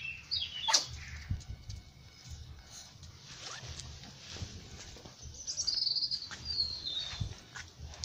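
Garden birds chirping: short high chirps at the start, then a louder, falling run of chirps in the second half. A sharp click comes just under a second in.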